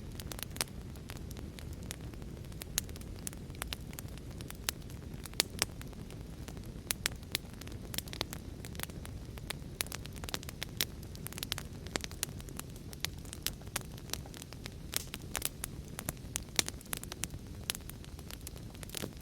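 Wood fire crackling in a fireplace, with frequent sharp, irregular pops over a steady low rush of rain.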